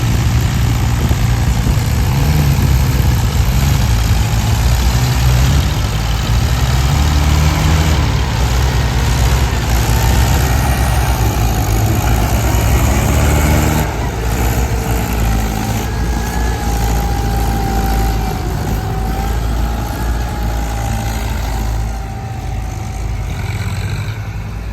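Heavy-machinery diesel engine running steadily, as from a backhoe loader or tractor, easing slightly in level about halfway, with a faint wavering whine over it through the middle.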